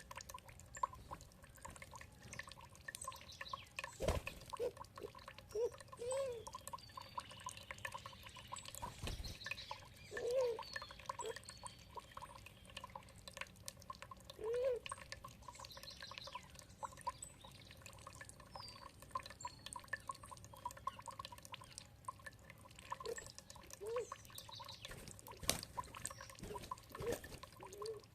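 Water dripping and trickling: many irregular drops, some landing with a short pitched plink. Faint bird calls come through now and then.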